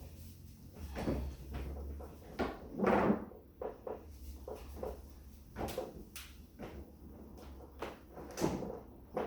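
A run of knocks, bumps and scrapes from a refrigerator being handled while someone reaches for its stuck power cord to unplug it. Underneath runs a low hum that stops and starts.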